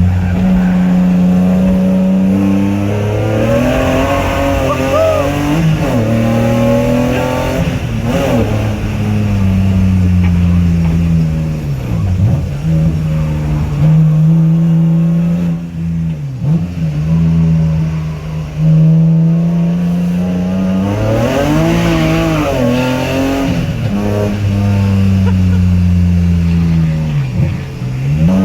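BMW E46 M3 S54 straight-six in an E30 track car, run hard at racing pace from inside the car. The engine note climbs and drops again and again as it accelerates through the gears and slows for corners.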